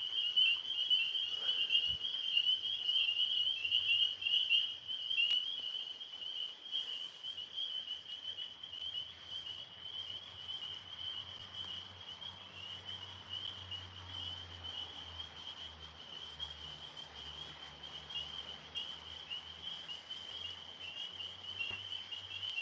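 Tree frogs calling overhead in a steady, unbroken chorus: a continuous high, fast-pulsing trill.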